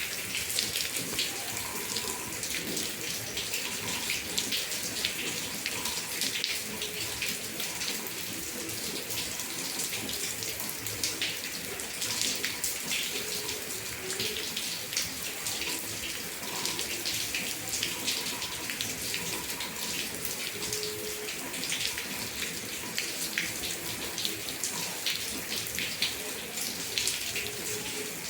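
Heavy rain falling and splashing, a steady hiss full of small drop impacts.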